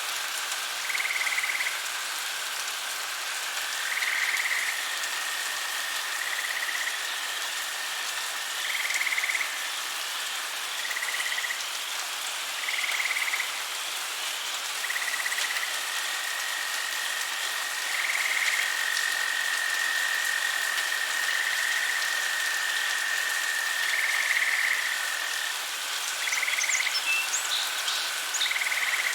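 Swamp frogs calling: short calls repeat every two to four seconds over a long, steady high trill, with a constant hiss of night ambience behind. A few quick, high chirps come near the end.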